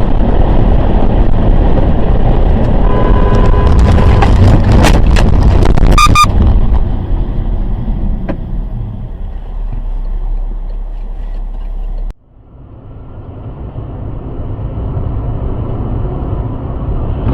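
Road and engine noise of a moving vehicle, heavy and loud, with a short steady tone about three seconds in and several sharp knocks between about four and six seconds in. About twelve seconds in, the sound cuts off abruptly and another stretch of vehicle noise builds up.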